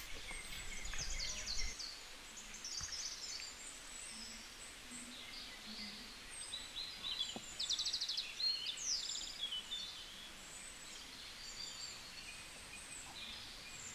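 Small birds chirping and trilling, many short high calls over a faint outdoor background, with a quick run of rapidly repeated notes about two-thirds of the way through.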